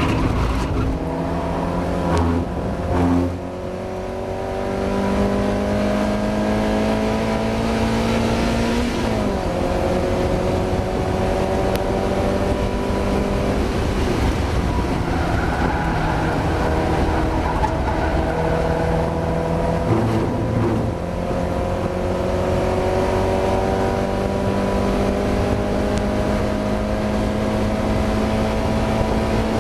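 Mazda MX-5 race car's four-cylinder engine heard from on board under hard acceleration, its pitch climbing steadily and dropping at each gear change, with a brief lift-off and blips a few seconds in. The car is running with a misfire.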